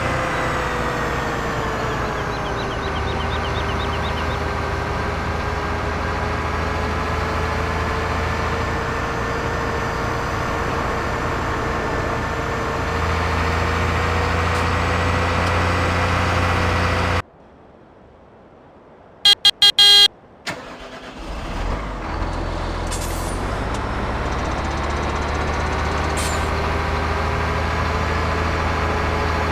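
A vehicle engine running steadily, its pitch drifting slightly. It cuts out for a few seconds, during which there are several short, sharp beeps, then runs again.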